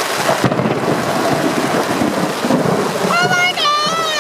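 Heavy rain pelting a tent with thunder rumbling through it. Near the end there is a short, high, wavering voice-like whine.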